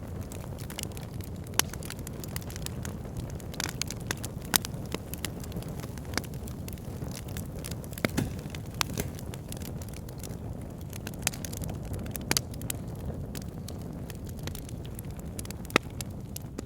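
Backyard fire pit burning, with a steady low rush of flame and frequent irregular crackles and sharp pops, a few of them standing out louder.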